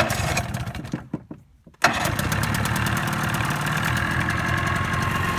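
1983 Evinrude 25 hp two-cylinder two-stroke outboard starting. It fires and runs briefly, fades out, then catches again just under two seconds in and keeps running steadily, with even firing pulses.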